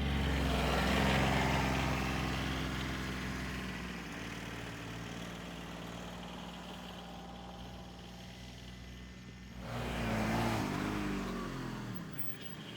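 A motor vehicle's engine going by, loudest at the start and fading away, then a second vehicle passes about ten seconds in, its pitch dropping as it goes.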